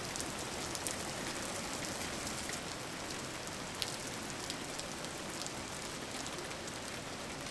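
Steady rain falling, an even hiss dotted with sharp drop ticks, one louder tick about four seconds in.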